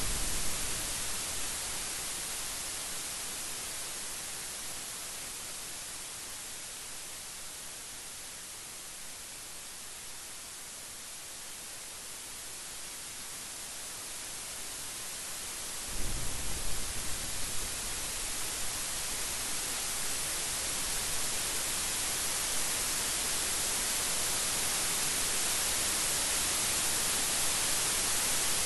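Steady hiss of heavy rain, growing louder toward the end. A thunder rumble is dying away at the start, and a fresh peal of thunder breaks in suddenly about halfway through, crackling for a few seconds before it rolls off into the rain.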